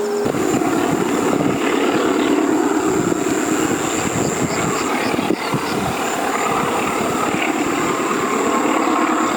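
Diesel locomotive engine running as a train passes, a steady loud rumbling drone that swells up just after the start, with insects buzzing in a thin steady high tone.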